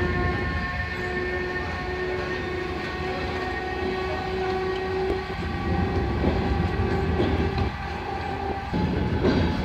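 Passenger train hauled by an electric locomotive pulling out past the platform: the coaches roll by with a low rumble and a steady high whine that stops shortly before the end, then some wheel clatter near the end.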